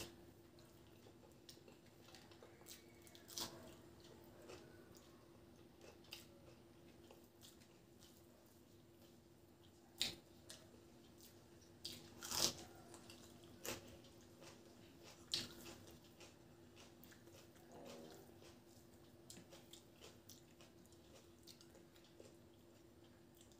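Quiet close-up eating sounds of a person chewing a mouthful of rice and fried food eaten by hand, with scattered sharp mouth clicks and smacks, the loudest about ten and twelve seconds in. A faint steady low hum runs underneath.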